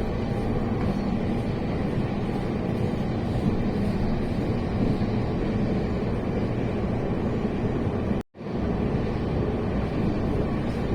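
Steady rumble of a passenger train running, heard from inside the carriage. It breaks off for a split second about eight seconds in.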